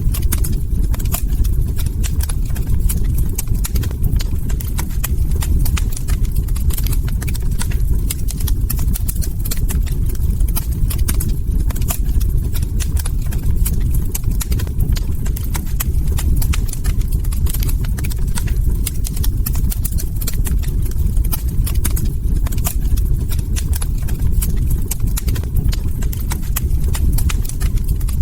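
Log fire crackling: a dense run of irregular sharp pops and snaps over a steady low rumble of burning wood.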